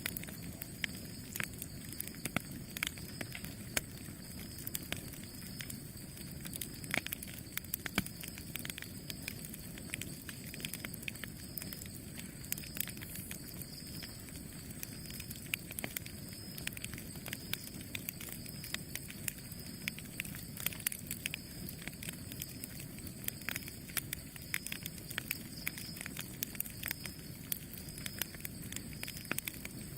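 Campfire burning steadily with a low rumble and frequent irregular crackles and pops of burning wood.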